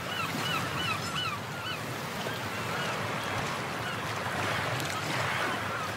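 Seashore ambience: surf washing steadily while a bird gives a quick string of short rise-and-fall calls in the first two seconds, with a few more calls near the end.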